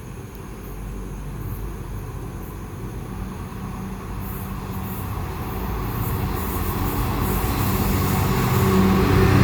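GBRF Class 66 diesel freight locomotive approaching, its two-stroke V12 engine running with a low, steady hum that grows steadily louder as it nears.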